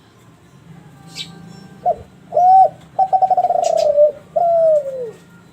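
Kelantan-strain spotted dove (derkuku) cooing one full phrase: two short notes, then a long note with a rapid rolling flutter, then a final note that slides down in pitch.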